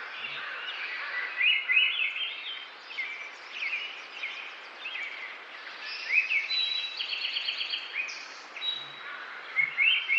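Birds chirping and singing, many short rising and falling calls over a steady background hiss, with a fast trill about six to seven seconds in.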